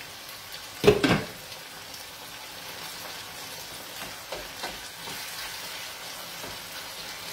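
Greens and guanciale sizzling steadily as they fry in a pan, with one sharp knock about a second in and a couple of light ticks later.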